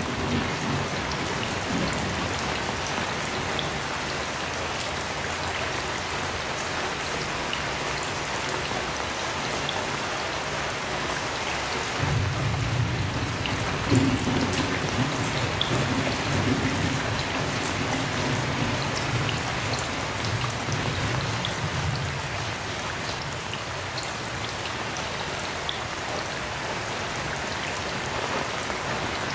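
Heavy rain falling steadily, with a low roll of thunder rumbling from about twelve seconds in for around ten seconds.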